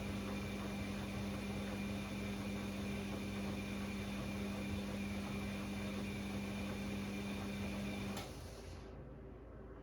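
Bosch Classixx 6 washing machine's drum motor running with a steady hum and high whine during the heating stage of a 90° cottons wash, then cutting off about eight seconds in as the drum stops turning, the noise dying away over about a second.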